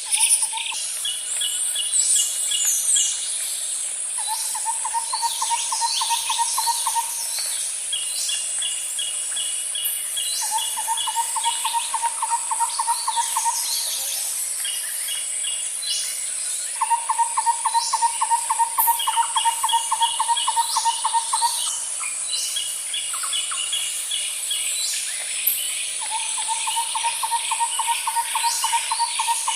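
Nature ambience of insects and animal calls: a steady high insect hiss, with a pulsed, mid-pitched trill repeating four times for a few seconds each, shorter high chirping trills, and scattered chirps.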